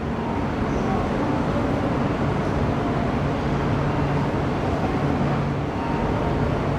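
Shinkansen train moving at the platform: a steady running rumble with a low hum that comes and goes.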